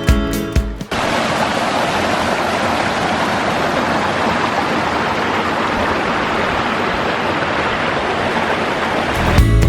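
Steady rush of flowing water, an even noise with no rhythm. It cuts in about a second in as strummed guitar music stops, and the music comes back near the end.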